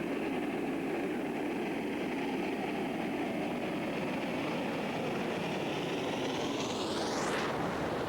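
A train, most likely a steam locomotive, running with a steady rumble. Near the end a whine rises sharply in pitch and cuts off suddenly.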